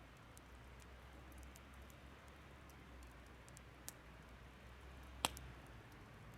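Burning firewood crackling softly: scattered small clicks over a faint steady hiss, with one sharp pop a little past five seconds in.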